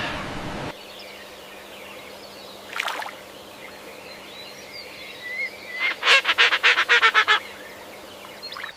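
An animal calling: a single short call about three seconds in, then a rapid run of about ten harsh calls, roughly eight a second, lasting about a second and a half.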